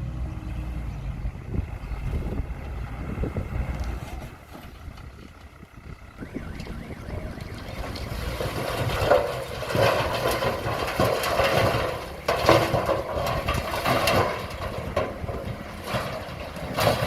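Diesel engine of a Komatsu D20P small crawler bulldozer running with a steady low rumble, fading about four seconds in; from about eight seconds in, louder rattling noise with several sharp knocks.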